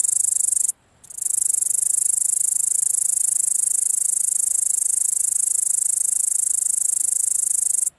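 A grasshopper stridulating: a loud, high-pitched, rapidly pulsing buzz that breaks off briefly just under a second in, then resumes steadily and stops near the end.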